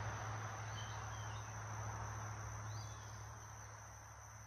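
Faint outdoor background: a low steady hum with a few short, high chirps, about a second in and again near three seconds.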